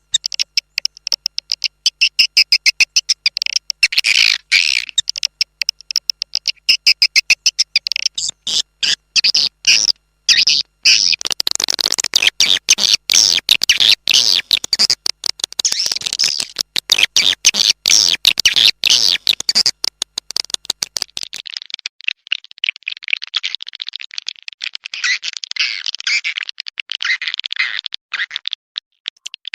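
Recorded calls of edible-nest swiftlets: loud, dense, rapid chirping and twittering, the lure sound played to draw swiftlets into a nesting house. About twenty seconds in, the recording changes and loses its highest treble.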